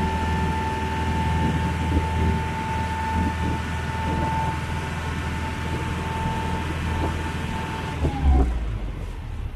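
Small passenger ferry's engine running steadily, a low hum with a high whine over it; about eight seconds in the whine slides down and stops as the engine note drops.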